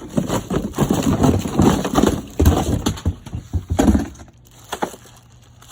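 Cardboard box and packing crackling and rustling, with knocks, as a pressure washer unit is pulled out of it; the noise dies down about four seconds in, leaving a few faint clicks.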